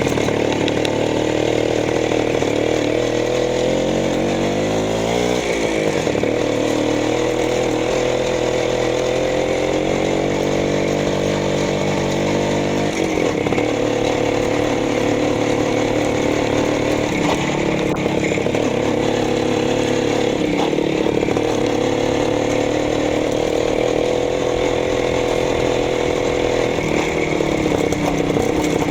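Minsk motorcycle engine running, its speed climbing and dropping back twice in the first half, then holding fairly steady.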